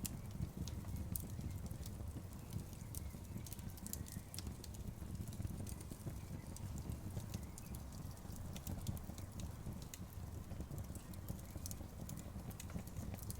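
Outdoor bonfire crackling, with frequent sharp pops and ticks over a steady low rumble.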